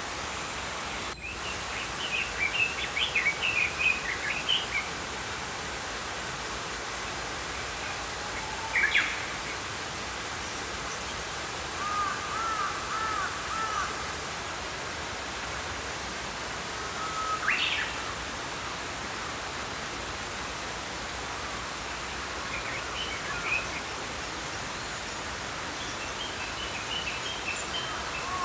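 Small birds chirping and calling in short scattered bursts a few seconds apart, over the steady rush of a flowing stream.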